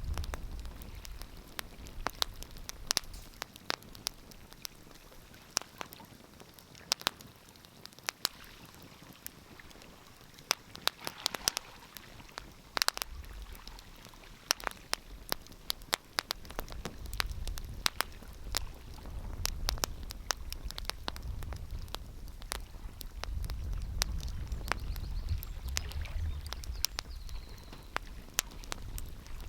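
Wood fire crackling, with irregular sharp pops and snaps. A low rumble swells under it from about halfway through until near the end.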